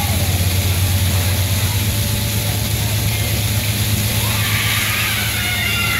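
Union Pacific coal train rolling past, a steady low rumble. Faint high-pitched squeals join in over the last couple of seconds.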